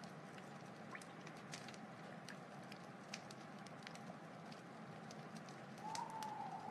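Wood fire burning: a steady hiss with scattered sharp crackles and pops from the burning logs. A wavering whistling tone comes in louder near the end.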